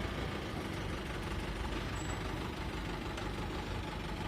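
Escorts 335 tractor's diesel engine running steadily.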